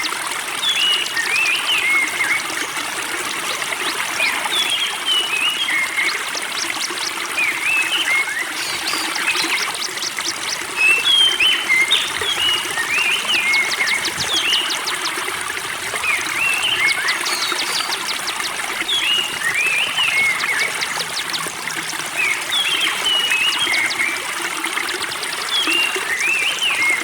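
Spring water trickling steadily under a songbird that repeats short chirping phrases every two to three seconds, with quick ticking trills between them.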